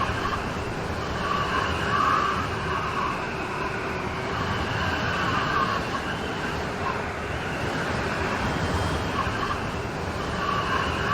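Steady rain storm, a dense even hiss of rainfall that swells slightly every few seconds.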